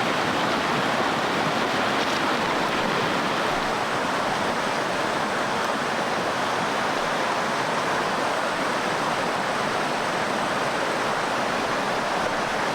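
Steady rushing of flowing stream water, an even, unbroken wash of noise.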